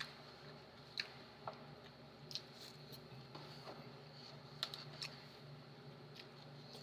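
Eating noises: scattered light clicks and taps of utensils on a plate, about seven in all, over a steady low hum.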